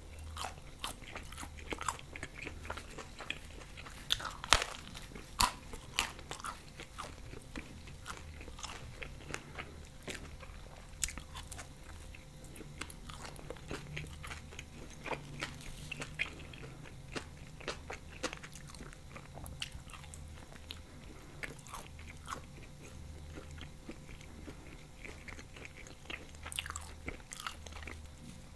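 Close-miked ASMR eating of a ham pizza slice: a steady run of biting, crunching and chewing with short mouth clicks. The loudest bites come about four and a half and five and a half seconds in.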